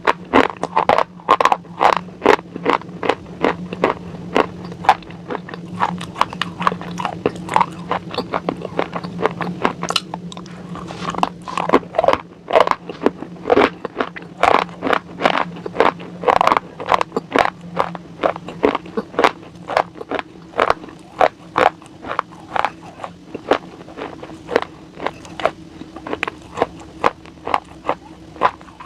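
Close-miked crunching bites and chewing of something hard and crisp, a few sharp crunches each second, over a faint steady low hum.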